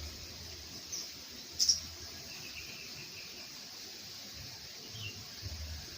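A steady, high, insect-like hiss runs underneath a few short, high bird chirps. The chirps come about a second in and again just after; a brief, faint whistled note follows, and there is one more small chirp near the end.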